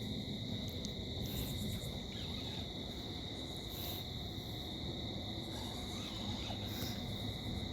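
Crickets trilling in a steady, high-pitched chorus over a low, constant rumble.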